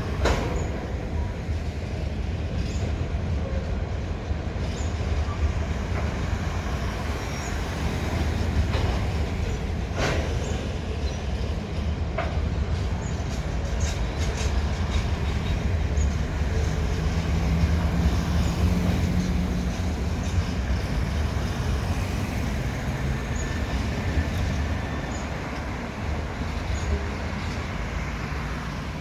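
Coal train's wagons rolling past over the bridge: a steady low rumble with scattered sharp clicks and knocks from the wheels on the rails.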